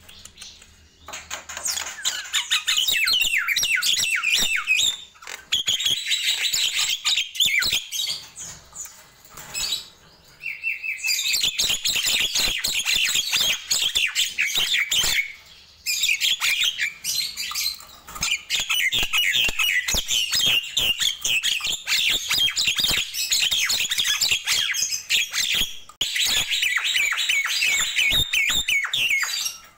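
Nias hill myna singing in long, rapid bouts of loud chattering and whistled notes, broken by short pauses every few seconds.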